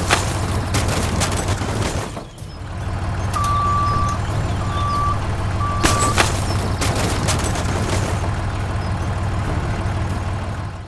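A vehicle engine running with a steady low hum, briefly dipping about two seconds in. Three short beeps of one pitch sound a few seconds in, with a few sharp clicks.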